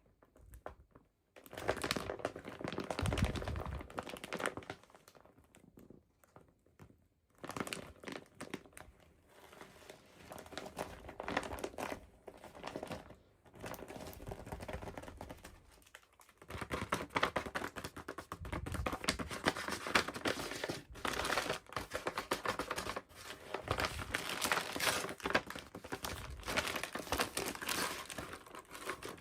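Plastic packaging of a toy doll crinkling and rustling as it is handled and opened by hand. The sound comes in several bouts with short pauses between them, and is nearly continuous over the second half.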